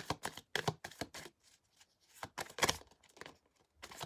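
Tarot cards being handled on a table: a run of irregular short snaps and slides as cards are drawn and laid down, with a longer rustle about two and a half seconds in.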